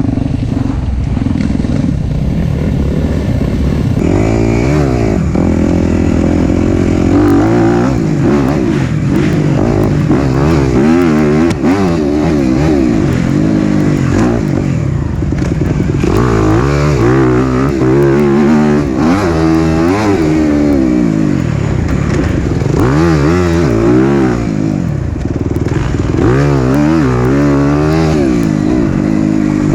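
Four-stroke single-cylinder dirt bike engine under way on a trail, its revs rising and falling over and over as the rider works the throttle and gears. It runs fairly steadily for the first few seconds, then swings up and down in pitch every second or two.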